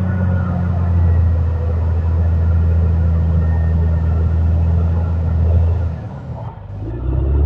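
Caterpillar D6R XL bulldozer's diesel engine running with a deep, steady rumble, dipping for about a second near the end before picking up again.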